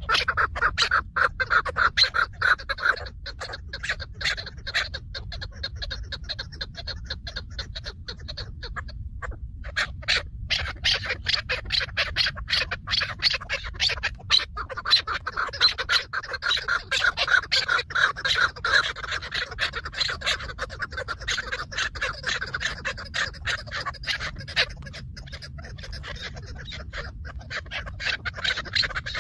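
Chukar partridges calling: a fast, continuous run of repeated clucking notes, with a short break about nine seconds in.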